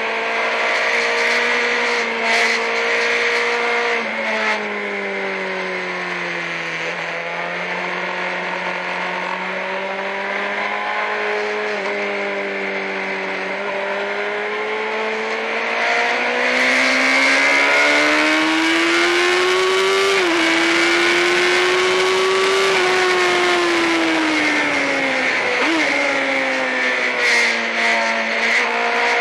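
Sportbike engine at track speed, heard from the rider's seat. Its note sinks gradually as the bike slows through a long corner, then climbs steadily on the drive out, with short sudden jumps in pitch about halfway through and again near the end, over a rush of wind noise.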